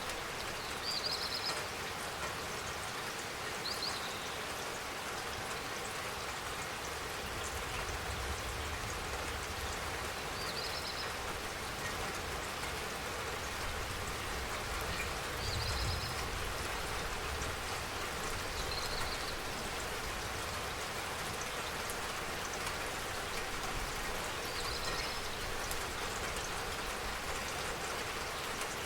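Steady rain falling and pattering on surfaces, an even hiss, with a few short high chirps every few seconds.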